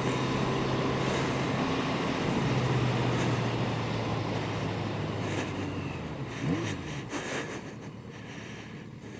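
Yamaha 750 Seca's inline-four engine running steadily while riding, with road and wind noise. About seven seconds in, the engine note fades and the sound drops off.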